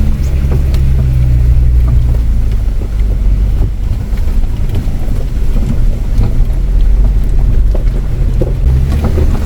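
Off-road vehicle's engine running steadily under load as it climbs a rough, steep mountain track, heard from inside the cabin, with light knocks and rattles from the bumpy ground.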